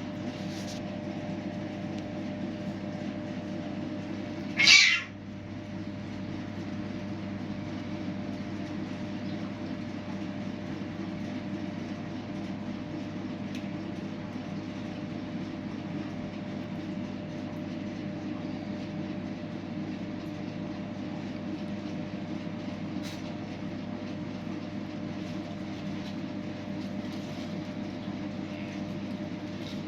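A street cat meows once, short and loud, about five seconds in, with a few faint meows later. A steady low hum runs underneath throughout.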